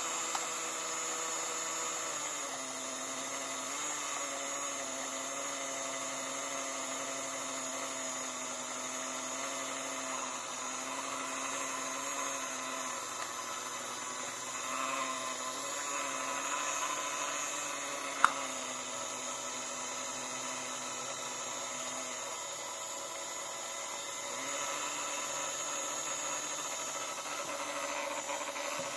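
Washing machine motor running with a steady whine whose pitch steps down a few times, and one sharp click about eighteen seconds in.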